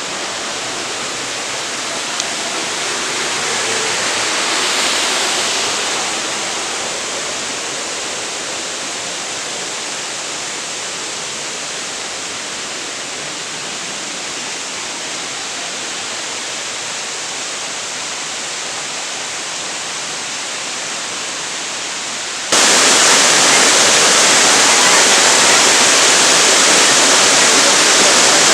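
Steady rush of falling water from a waterfall of about 30 m, becoming suddenly louder and hissier about three-quarters of the way through.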